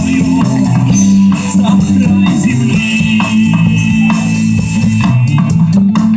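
Rock band playing an instrumental passage: drums, bass and guitar. A long high note is held about halfway through, and the cymbals drop out briefly near the end.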